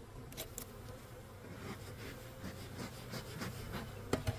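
Honeybees buzzing steadily around an opened hive during an inspection, with a few sharp clicks and knocks of hive equipment, a cluster about half a second in and a louder pair near the end.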